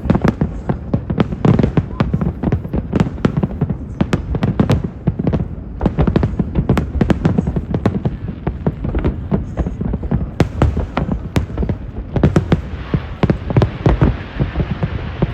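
Fireworks display: a rapid, continuous barrage of booming bursts and crackles, several reports a second with a low rumble beneath.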